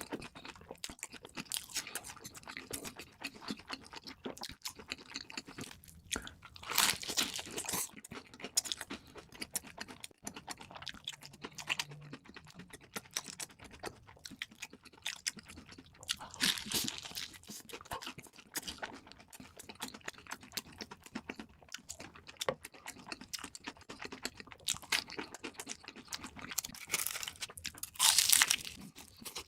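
Close-miked eating sounds: steady wet chewing with many small crackles, and three louder crunchy bites, about a quarter of the way in, just past halfway and near the end.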